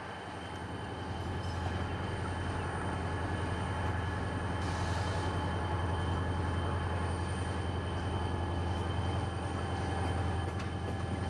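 Diesel freight locomotive running with a steady low engine hum, growing louder about a second in and then holding.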